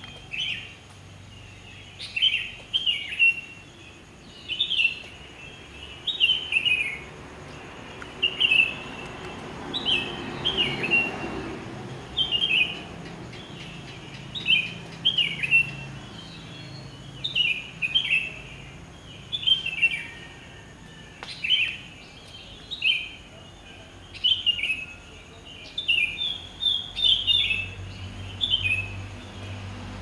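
A bird singing, repeating a short phrase of a few quick falling notes every second or two.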